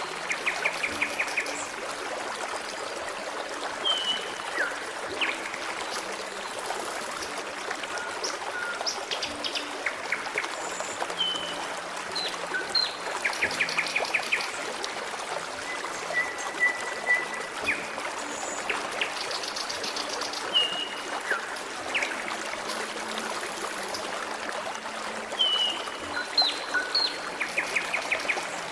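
Forest stream babbling and trickling steadily, with small birds singing over it: short whistled chirps, quick rattling trills and brief falling notes at irregular intervals.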